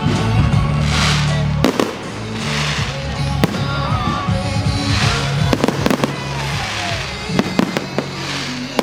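Fireworks going off: several sharp bangs and stretches of crackling, over loud pop music played through a sound system.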